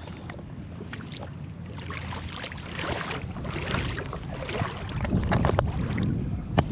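Shallow seawater splashing and sloshing around legs as a person wades in, getting louder after a couple of seconds, with wind rumbling on the microphone.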